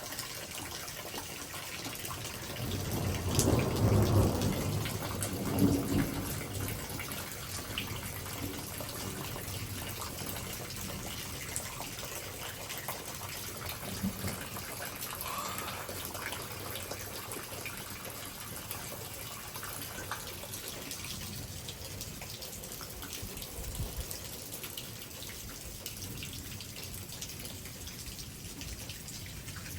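Light rain falling and dripping steadily as a thunderstorm's downpour eases off, with a low rumble of thunder swelling about three seconds in and fading after a few seconds.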